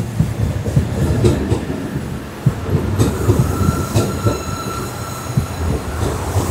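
Electric commuter train running along the platform, its wheels rumbling and knocking over the rail joints. A thin high wheel squeal is held for about two seconds midway.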